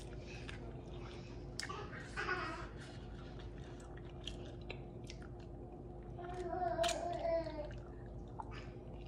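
A person biting and chewing sauce-covered, pan-fried chicken wings, with many small mouth clicks scattered throughout.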